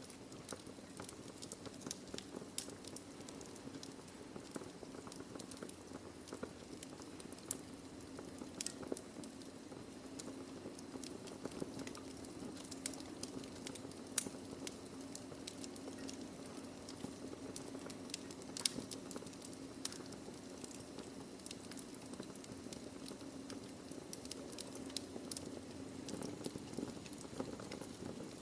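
Burning logs in a fireplace crackling, with frequent sharp pops, the loudest about fourteen seconds in, over a low steady rumble.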